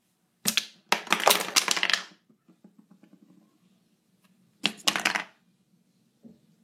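Small plastic toy pieces clattering and knocking against each other in short rattling bursts: one about half a second in, a longer one from about one to two seconds in, and another near five seconds.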